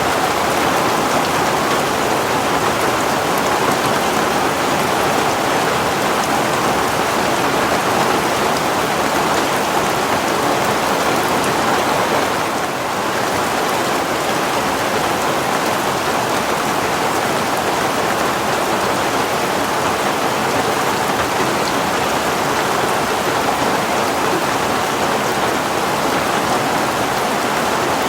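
Heavy rain falling steadily, a dense even hiss of rain on surfaces, with a brief slight dip in level about halfway through.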